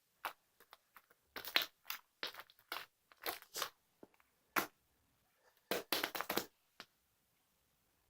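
Irregular crunching and crinkling: a string of short, scratchy handling noises in uneven clusters.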